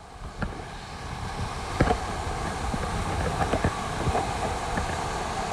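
Water rushing and splashing around an inner tube sliding down a water slide, with wind buffeting the microphone and a few short knocks as the tube hits the walls. The noise builds steadily over the first couple of seconds, then stays level.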